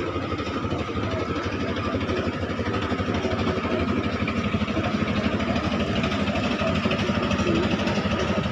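A klotok's inboard engine running steadily with a fast, even beat.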